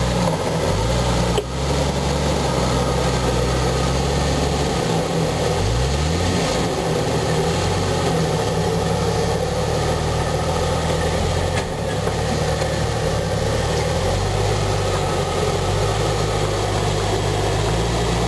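Jeep Cherokee XJ's engine running at low revs as the lifted Jeep crawls through a deep rut, briefly revving up and back down twice, about half a second in and again around five to six seconds in.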